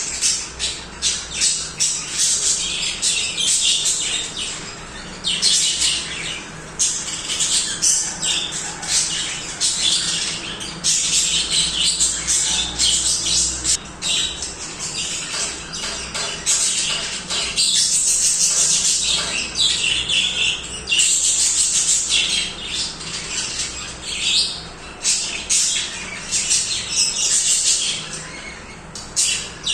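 A group of budgerigars chattering and warbling without a break, with frequent short, harsh squawks over rapid chirps.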